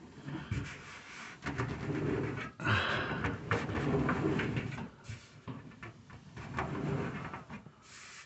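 Irregular clicks, knocks and rubbing as a Whirlpool Cabrio dryer's drum belt and pulleys are worked by hand during the belt refit.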